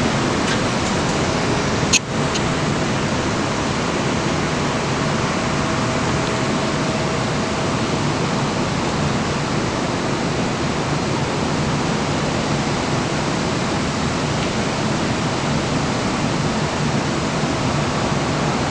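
Steady rushing wind noise on the microphone, at a constant level. A faint steady tone runs under it for the first several seconds, and there is one sharp click about two seconds in.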